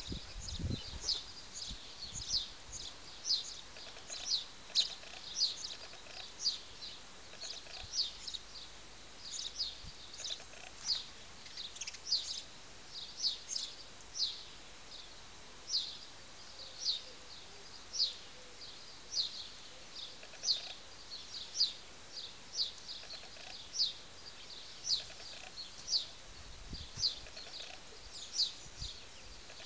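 A small bird chirping over and over: short, high, falling chirps, about one or two a second. There are a few low thumps in the first second.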